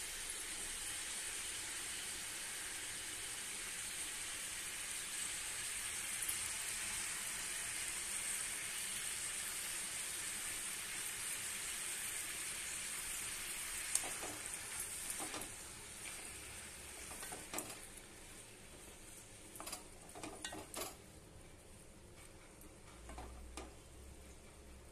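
Naleru stems and tomato frying in oil in a pan, a steady sizzle. About two-thirds of the way through, the sizzle dies down and a spoon scrapes and taps against the pan several times.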